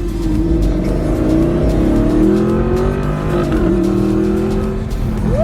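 Audi R8 engine accelerating, its pitch rising for about three seconds, then dropping at a gear change about three and a half seconds in and running steadily after.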